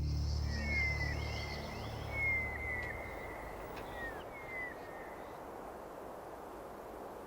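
Forest ambience: a bird gives several short, falling whistled calls in the first few seconds over a steady background hiss, while low music fades out in the first three seconds.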